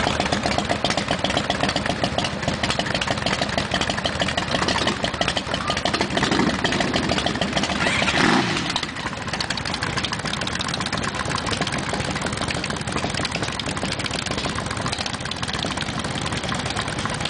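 V-twin cruiser motorcycle engines running with a rapid, uneven pulse. About eight seconds in one is revved and rides off close by, after which the running goes on a little quieter.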